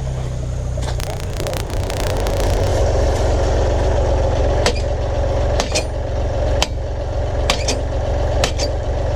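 Tractor engine idling steadily, with a rattle about a second in, then a series of sharp knocks about once a second from about halfway.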